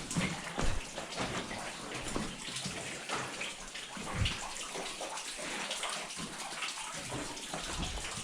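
Water sloshing and splashing irregularly around legs wading through a flooded mine passage, with water dripping.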